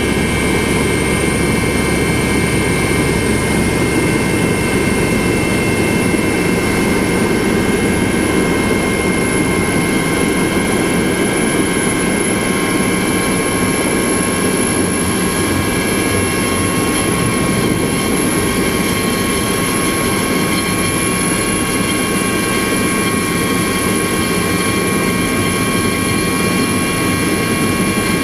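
Helicopter running steadily: rotor noise with several steady high turbine-whine tones over it, unchanging throughout.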